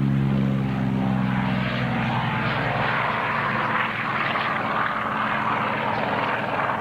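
Piston-engined WWII propeller fighter running at high power: a low engine drone fades over the first two seconds while a loud propeller and exhaust rush builds and holds.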